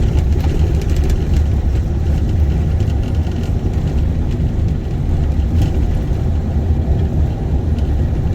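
Steady low rumble of a vehicle driving, heard from inside the cab: engine and tyre noise, with faint small rattles.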